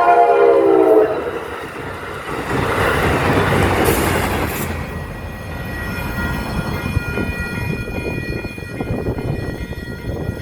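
Amtrak Capitol Corridor passenger train passing close by: its horn chord drops in pitch as the train goes past and cuts off about a second in. The train then rushes by with rolling wheel and rail noise, loudest around four seconds in and easing off, with a thin steady high tone in the second half.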